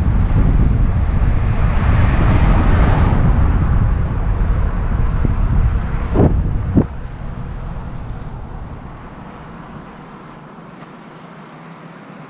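Wind buffeting a helmet-mounted camera's microphone as a bicycle coasts fast downhill, a loud rumble that dies away steadily over the second half as the bike slows. Two short squeals sound about six seconds in.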